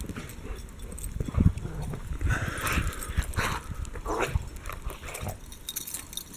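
Dogs vocalizing, a run of short sounds between about two and four and a half seconds in.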